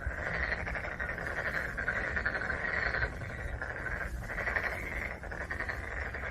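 Black-spotted pond frogs calling: a continuous run of rapid pulsed croaks, broken briefly about four seconds in.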